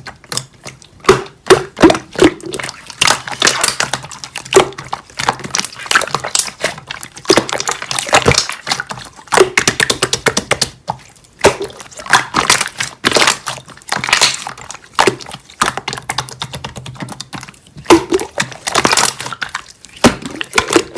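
Slime being squeezed, pressed and poked by hand, making irregular crackling and popping clicks in quick clusters.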